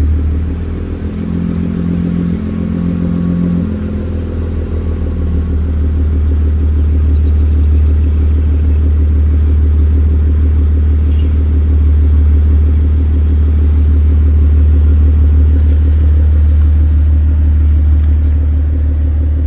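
Car engine running, a steady low drone that holds without change.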